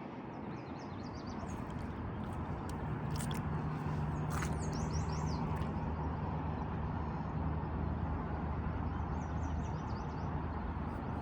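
Steady low drone of a distant motor vehicle engine over a broad background rush, swelling a little about two seconds in, with a few small bird chirps.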